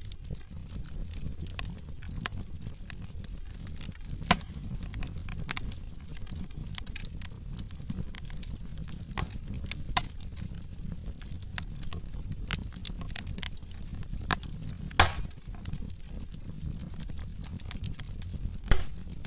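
Wood fire burning in a fireplace: a steady low rumble of flames under scattered sharp crackles and pops from the logs, with a few louder pops about four seconds in, near the three-quarter mark and near the end.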